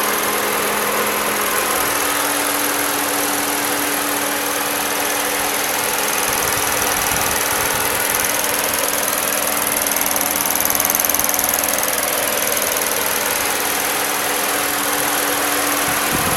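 Lexus IS250's 2.5-litre V6 engine idling steadily, briefly a little louder about ten seconds in.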